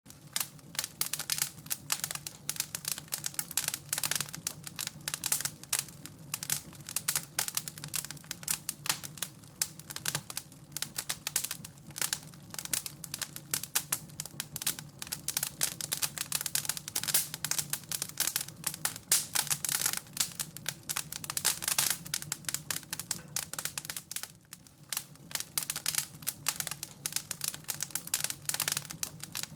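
Fire crackling in a fireplace: dense, irregular pops and snaps, with a brief lull about 24 seconds in.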